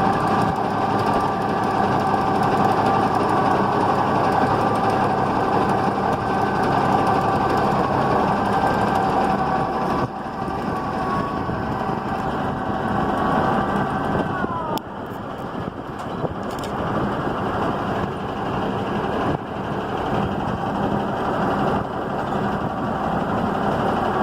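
1974 Kenworth dump truck's engine running with a steady whine while the hydraulic hoist raises the dump box. About fifteen seconds in the whine drops in pitch and stops, and the engine keeps running more quietly.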